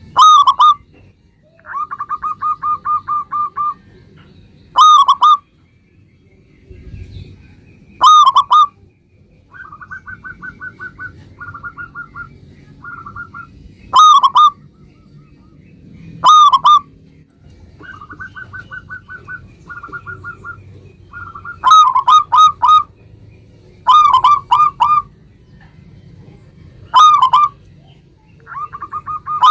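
Zebra doves (perkutut, local Indonesian type) cooing: loud, short coos come every few seconds, with quieter runs of quick staccato notes between them.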